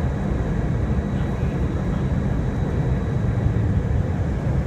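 Steady low rumble of an Airbus A320 in flight, engine and airflow noise heard as cabin noise, with faint thin steady tones above it.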